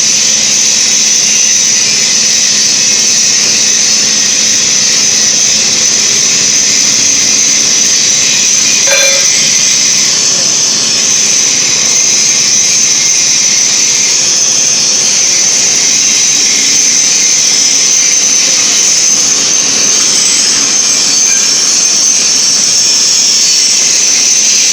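Steady, loud machine noise with a constant high hiss and a faint low hum, broken only by a faint knock about nine seconds in.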